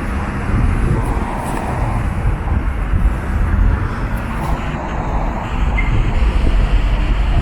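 Steady road traffic noise from a busy city street, an even low rumble with no single vehicle standing out.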